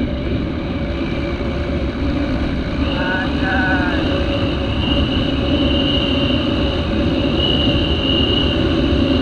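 A motorbike running steadily on the road, with its engine and wind noise on the microphone. A steady high whine joins in about three seconds in, and a brief voice-like sound is heard around the same time.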